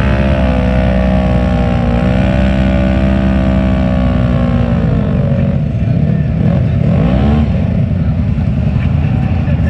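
Mud truck engine running hard at high revs, held steady for about five seconds and then dropping off, with another short rev-up and fall about seven seconds in.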